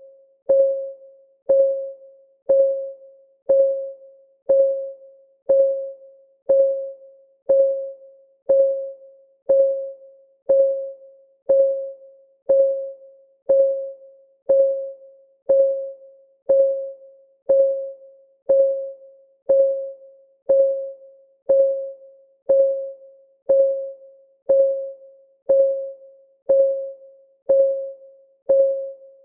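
Countdown timer's clock-tick sound: one short tick every second, steady and even, each with a brief pitched ring.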